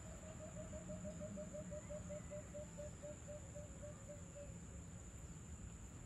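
A bird calling a run of about twenty short, low hooting notes, about five a second, which stop about four and a half seconds in. Under it runs a steady high-pitched insect drone.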